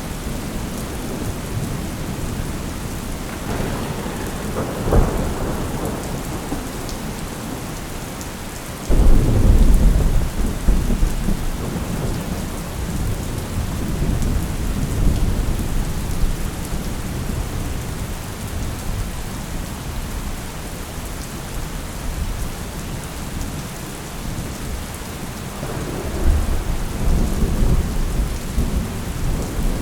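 Thunderstorm: steady rain with thunder. A sharp crack about five seconds in, then a loud low rumble that starts suddenly about nine seconds in and rolls on for several seconds, and another rumble near the end.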